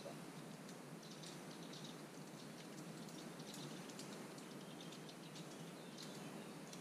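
Small birds chirping faintly: short, high, scattered calls over a steady hiss of outdoor background noise.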